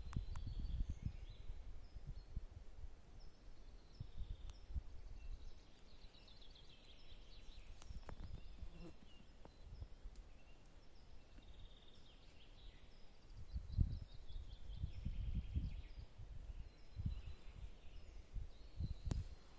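Songbirds singing, with repeated high trilled phrases that run down in pitch, over irregular low thumps and rumbles on the microphone, the strongest about two-thirds of the way through.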